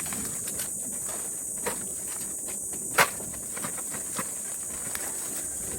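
Steady high-pitched insect chorus, with scattered sharp snaps and knocks, the loudest about three seconds in.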